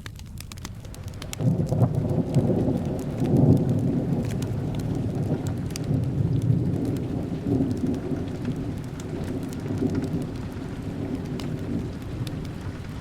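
Steady rain with a roll of thunder that starts about a second and a half in, is loudest a couple of seconds later and slowly fades away. Sharp fireplace crackles tick throughout.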